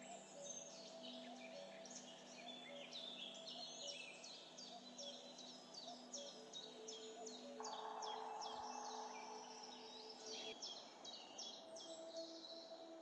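Faint birdsong: quick, high chirps repeated many times over, above a few low, held notes that change pitch now and then. A soft hiss comes in about eight seconds in and lasts some three seconds.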